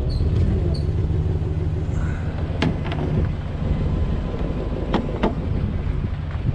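Tow truck engine running steadily with the PTO engaged for the wheel-lift hydraulics, broken by a few sharp metallic knocks about two and a half and five seconds in.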